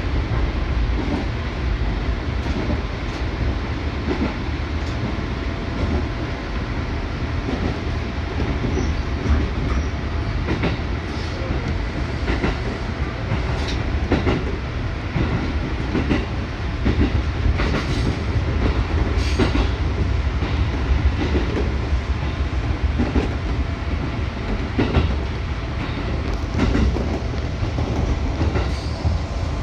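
JR Musashino Line electric commuter train running along the track: a steady low rumble with irregular clicks of the wheels over rail joints.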